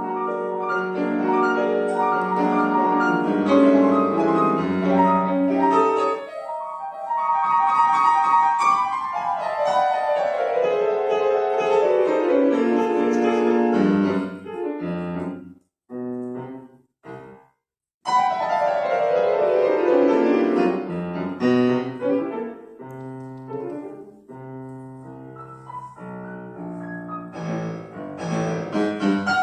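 Solo piano playing a classical-style piece. Dense runs and chords are broken around the middle by a few short, detached chords with brief silences between them, before the flowing playing resumes.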